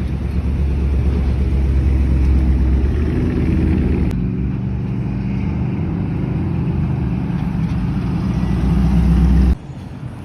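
A car engine running with a deep steady rumble, building in loudness toward the end before cutting off abruptly.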